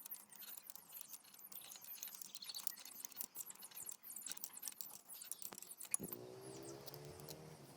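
Faint small clicks and taps of hand tools undoing the wire terminals on an electric water heater's heating element. A faint low hum starts suddenly about six seconds in.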